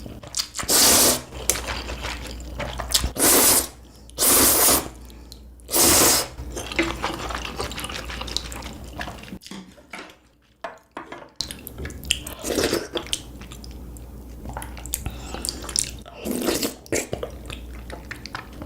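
Ramen noodles being slurped in short, loud wet bursts, four in the first six seconds and two softer ones later, with quieter wet mouth sounds in between.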